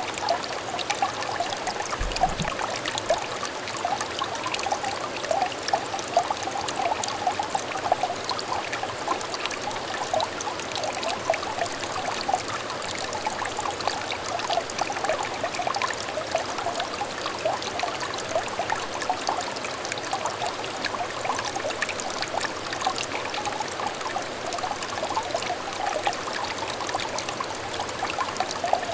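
A small clear stream trickling and babbling steadily over stones, a continuous burble of small splashes.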